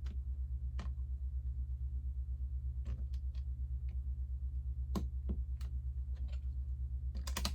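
Lego bricks clicking as pieces are handled and pressed together: scattered sharp clicks, with a quick cluster near the end, over a steady low hum.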